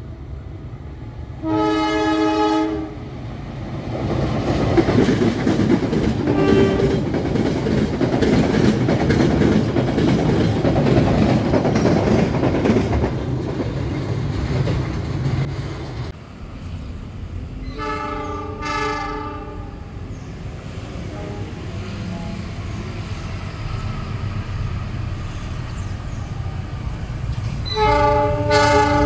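Diesel locomotive horn sounding three short blasts, the first about a second and a half in, another about midway and the last near the end. Between the first two blasts a train passes, with a loud rumble and clatter of wheels on the rails.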